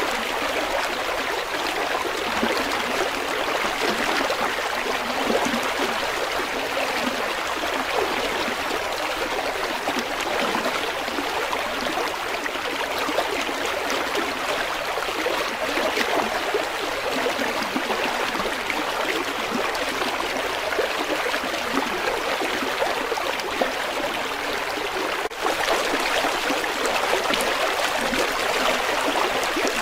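River water flowing and splashing over rocks in a steady rush. There is a momentary break about 25 seconds in, after which it is slightly louder.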